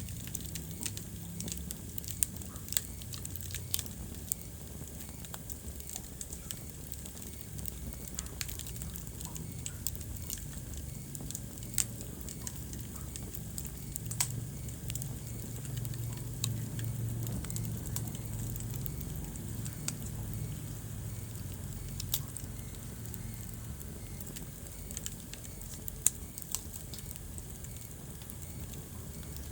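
Wood fire burning in a fireplace: scattered sharp crackles and pops, a few of them louder, over a low steady background.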